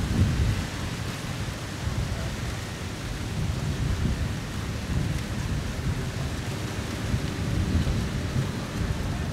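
Wind buffeting the microphone: an uneven low rumble that rises and falls in gusts over a steady hiss, strongest right at the start.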